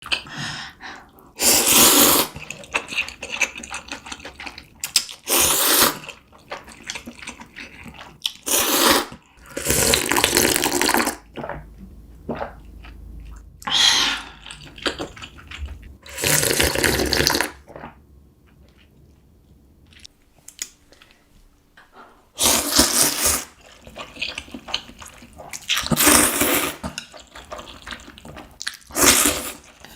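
Close-miked slurping of noodles and soup broth, first spicy seafood noodle soup (jjamppong) and then doenjang kalguksu noodles: loud slurps lasting a second or two each, about nine of them, with softer chewing and small clicks between.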